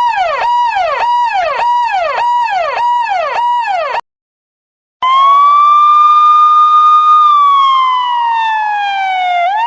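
Two police car sirens, one after the other. The first is a fast yelp whose pitch jumps up and falls about twice a second. After about a second of silence, a slow wail holds a high note, slides down, and begins rising again near the end.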